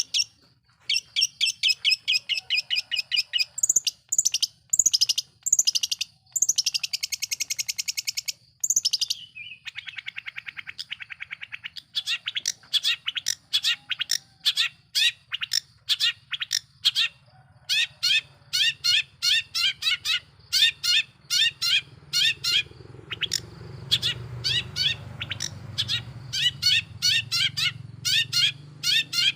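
Long-tailed shrike singing a fast, varied song: rapid runs of sharp high chirps, a harsh buzzy passage about seven seconds in, and a lower rasping stretch around ten seconds. A low hum runs underneath and grows louder in the last several seconds.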